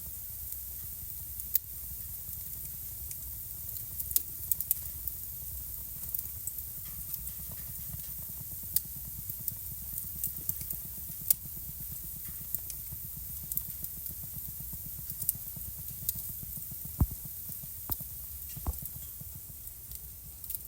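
Wood fire burning in a fireplace: irregular sharp crackles and pops over a steady low rumble and hiss of the flames. A few pops are louder, with the deepest ones near the end.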